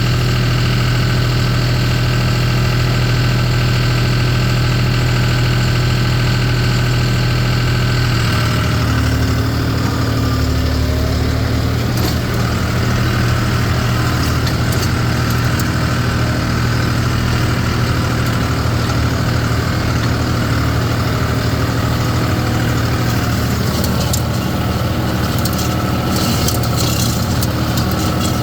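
Tractor engine running steadily; its note changes about eight seconds in, as if under a different load, and light rattling is heard near the end.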